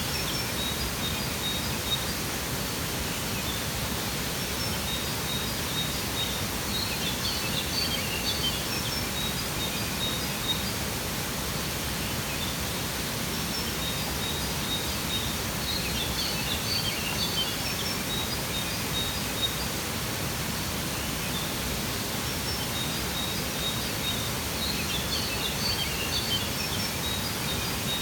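A waterfall rushing steadily, with bird chirps coming in short clusters about every eight or nine seconds.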